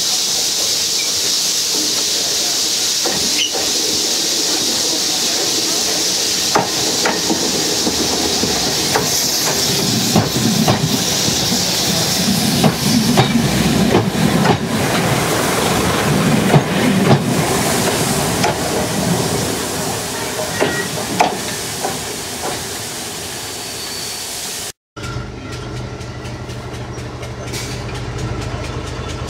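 Train running along the track with a strong hiss and clicks from the rails. About ten seconds in a heavy rumble builds for several seconds as a diesel multiple unit passes close alongside. After a cut near the end, a diesel engine idles steadily.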